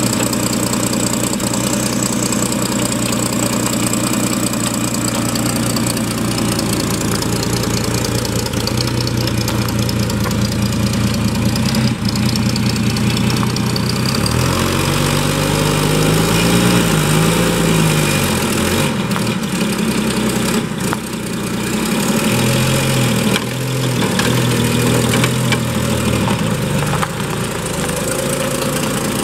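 A 1929 Graham-Paige Model 615's inline six-cylinder engine idles steadily. About halfway through, its note rises and falls several times as the car is driven off.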